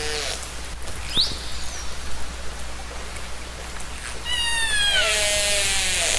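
Killer whale (orca) calls recorded underwater: a short, fast rising whistle about a second in, then a longer call with several tones gliding downward about four seconds in, over a steady underwater hiss.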